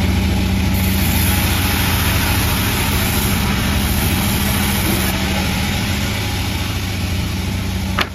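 Panda36 sawmill running steadily: a constant low engine hum under an even wash of machine noise. A short sharp click comes near the end.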